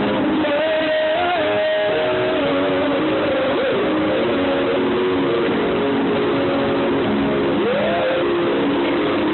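Live band music led by guitar: a melody line sliding between held notes over sustained chords. It is recorded on a phone, so it sounds dull, with no high end.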